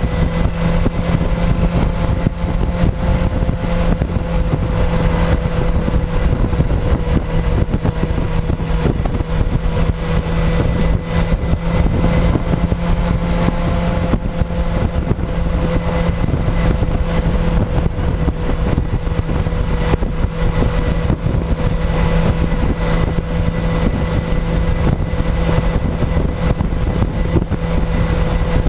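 Motorcycle engine running at a steady pitch while riding, heard from a camera mounted on the fuel tank, with wind noise rushing over the microphone.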